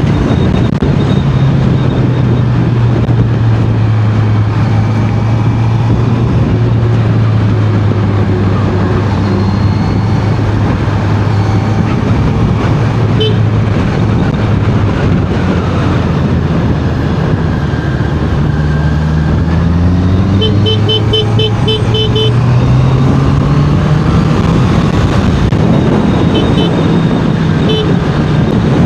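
Honda CBR650R's inline-four engine running under way, its pitch sinking slowly, then climbing again in the second half as the bike speeds up, under heavy wind rush. A vehicle horn gives a quick run of short toots about two-thirds of the way in, with single toots just before halfway and near the end.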